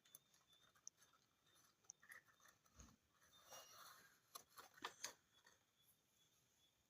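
Near silence, with a few faint scattered clicks, a small cluster of them about two thirds of the way through.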